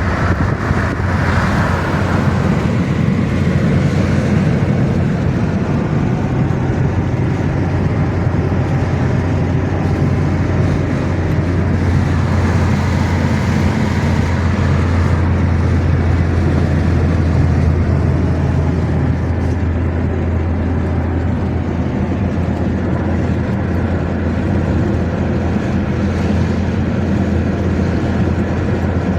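A car driving along, with a steady low engine hum and road noise running unbroken.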